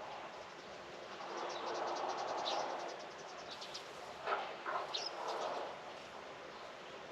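Birds chirping and calling outdoors, with quick high trills and short chirps, and a louder call about four seconds in, over a steady background hiss.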